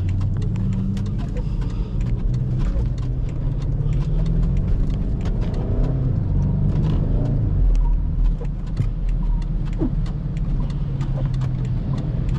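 BMW X5 xDrive50i's twin-turbo V8 running while the SUV drives on snowy road. The engine pitch rises and falls as it accelerates and eases off, over a steady low rumble with scattered short ticks.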